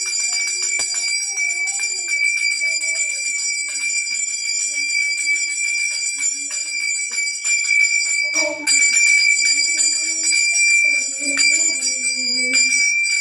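Hindu temple bell rung continuously, its clapper striking many times a second so that a high, steady ring never dies away. People's voices can be heard underneath.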